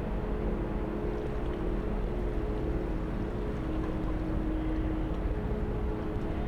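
Fishing boat's diesel engine running steadily: a low rumble with a steady hum.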